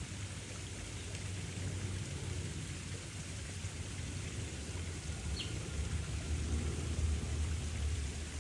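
Steady rain-like hiss with a low rumble underneath that grows louder near the end.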